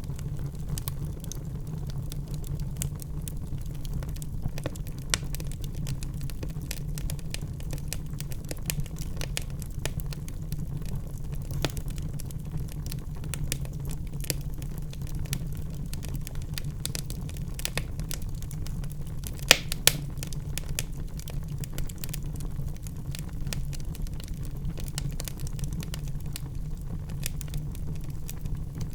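Wood fire burning in a fireplace: a steady low rumble of flames with many small irregular crackles, and two louder pops about two-thirds of the way through.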